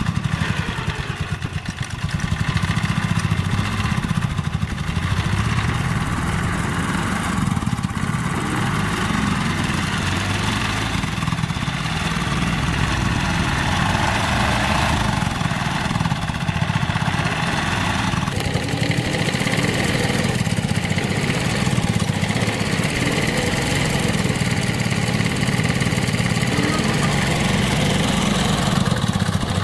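A small engine running steadily at an even idle-like speed, its level dipping briefly about two seconds in.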